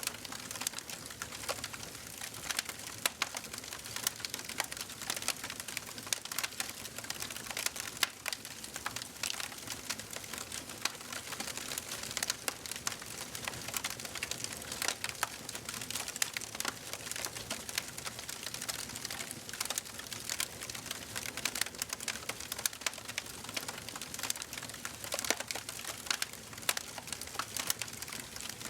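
Wood fire in a fireplace crackling steadily: a dense, irregular run of small sharp pops and snaps over a soft hiss of burning.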